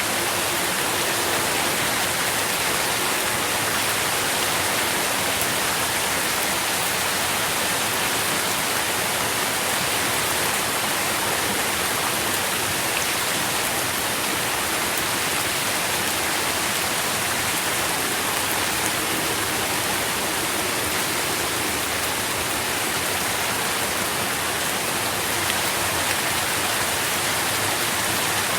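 Steady rain falling, an even hiss of many drops with no distinct single impacts.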